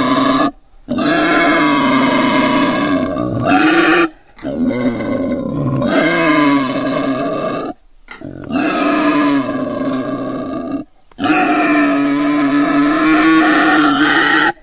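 Domestic pig giving a series of long, drawn-out grunting calls, each about three seconds long, with short, abrupt breaks between them.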